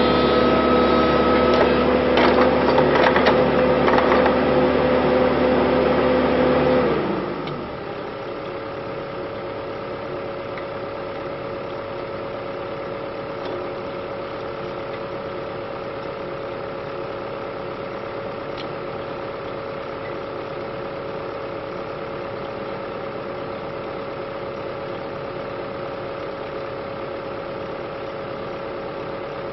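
Excavator engine and hydraulics working hard, with some sharp knocks, then dropping to a steady idle about seven seconds in.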